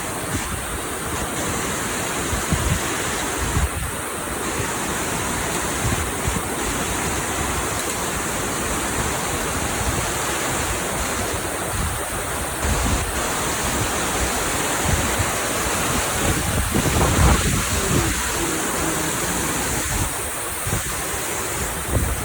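Large waterfall rushing loudly and steadily, with wind buffeting the microphone in low gusts.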